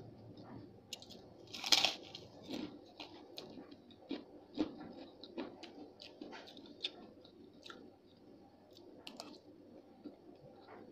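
A person biting into and chewing a crunchy piece of food close to the microphone. One loud crunching bite about two seconds in, then a run of smaller, irregular crunches as it is chewed.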